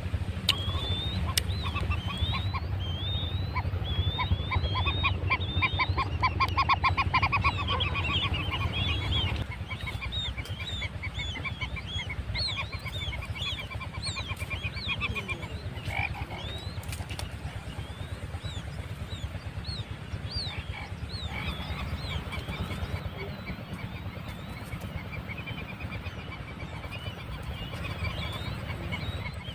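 Quail chicks peeping again and again in short, high chirps: the distress calls of chicks separated from their mother. A faster, louder run of pulsed calls comes early on, over a low rumble that stops about a third of the way in.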